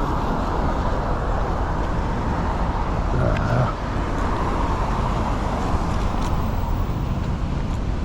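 Steady rushing wind and road noise on an action-camera microphone while riding a Surron X electric bike in the rain, with vehicle traffic around. A brief swell about three and a half seconds in.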